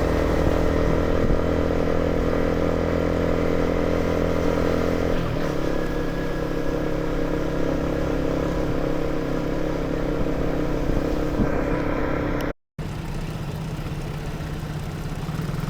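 Motorcycle engine running steadily while riding. Its tone changes about five seconds in, and the sound cuts out for a moment near the end before carrying on lower and quieter.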